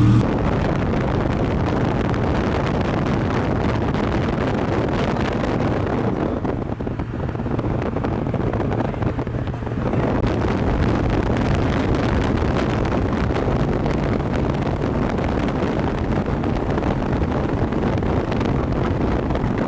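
Wind buffeting the microphone over the low, steady sound of a car engine running, easing briefly about seven to ten seconds in.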